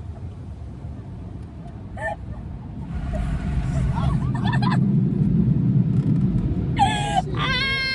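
Automatic car wash running over the car, heard from inside: a low rumble that swells about three seconds in and holds. A high-pitched wavering shriek near the end.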